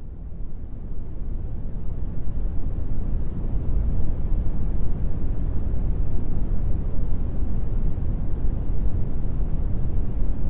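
Brown noise: an even, deep hiss weighted toward the low end, with no tone or rhythm in it. It fades up over about the first two seconds and then holds steady.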